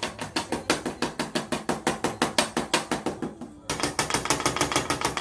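Rapid, evenly spaced mechanical clicking, about six or seven clicks a second, like a ratchet. It breaks off for a moment about three and a half seconds in, then carries on.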